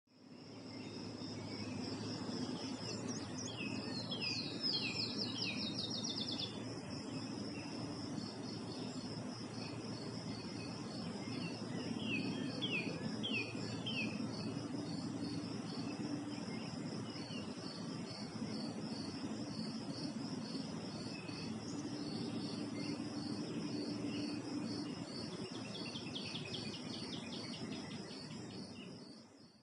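Insects chirping in a steady, rapid pulsed trill throughout, with a bird singing quick series of falling notes three times: early on, around the middle and near the end. A low steady background noise sits underneath.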